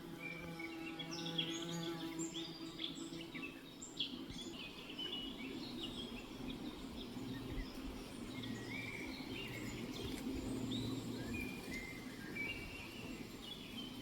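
Several small songbirds chirping and calling, with short overlapping notes throughout, over a low steady hum.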